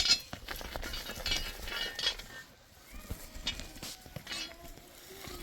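Clinking and clattering of hard objects, loudest right at the start, then scattered lighter knocks and rustles.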